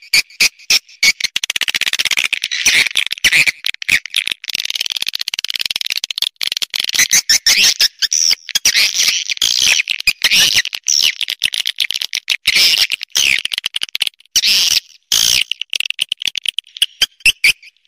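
Swiftlet calls: a run of rapid dry clicks, then dense high twittering chirps, then rapid clicks again near the end.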